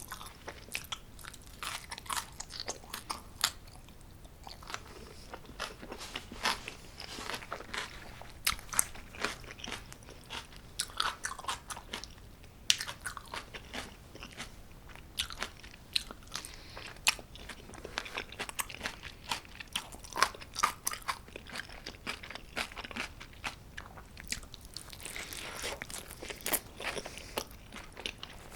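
A person biting and chewing homemade pizza, with many short, irregular crunches.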